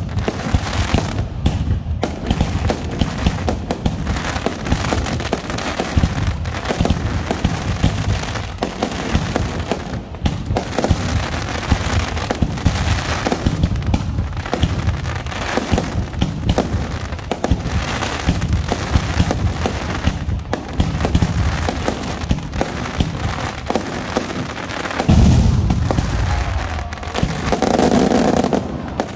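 Aerial fireworks bursting in rapid, continuous succession: a dense run of booms and crackles, with heavier, deeper bursts near the end.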